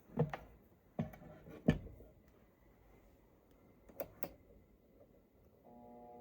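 A few sharp knocks and clicks from handling, then near the end the c.1915 Century Electric S2-10 desk fan's motor switches on with a steady electrical hum.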